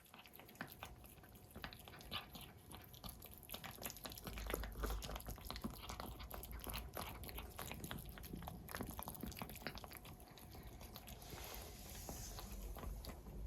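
Kittens eating wet cat food: close, quick, irregular smacking and chewing sounds.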